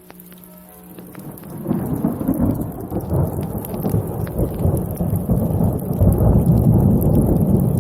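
Thunder rumbling during a rainstorm: a low rolling rumble swells up about a second and a half in and stays loud, with rain falling.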